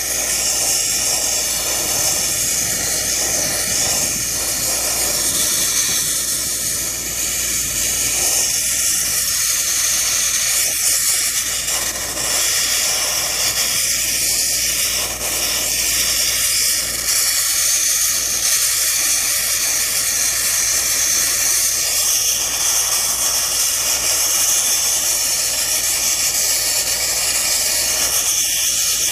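Sandblasting nozzle blasting abrasive with compressed air: a loud, steady, high hiss.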